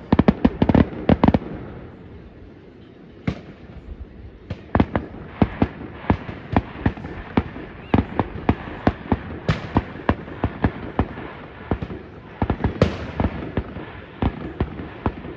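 Fireworks going off in a rapid, irregular string of sharp bangs, with a short lull about two seconds in before the bangs pick up again.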